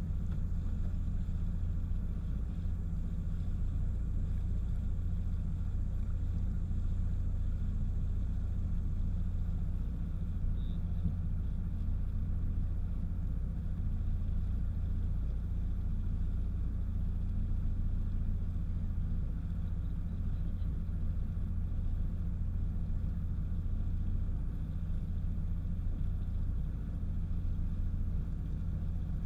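Jet ski under way, heard as a steady low rumble that keeps an even pace throughout.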